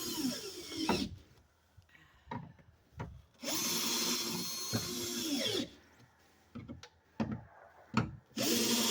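Power drill with a Torx T30 driver bit, run in bursts of about two seconds while driving the tool box's mounting fasteners. Its whine winds down in pitch each time the trigger is let go. One burst ends just after the start, another runs about midway, and a third starts near the end, with a few light knocks and clicks in between.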